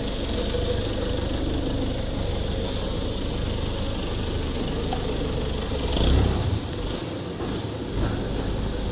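Steady low mechanical hum, with a brief louder low rumble about six seconds in.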